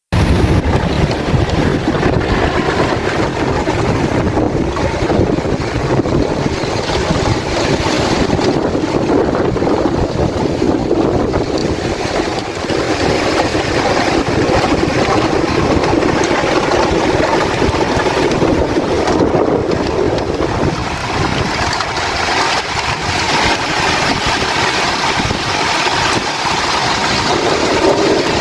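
Rain falling in strong, gusting wind, with the wind buffeting the microphone.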